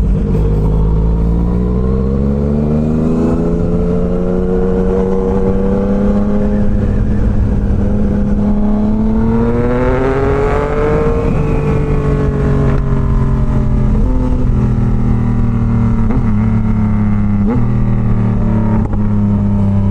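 Yamaha MT-09's inline three-cylinder engine under a rider's acceleration, its pitch climbing steadily for about ten seconds and then falling away as the bike eases off, with wind rumble on the helmet-camera microphone.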